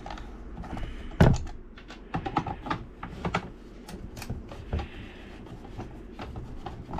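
Irregular small clicks and light knocks from handling the parts of a blower under repair, with one sharp click about a second in.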